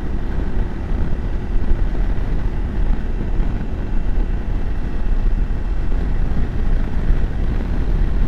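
BMW F750GS motorcycle cruising at about the speed limit: a steady rush of wind on the microphone, with the engine running underneath.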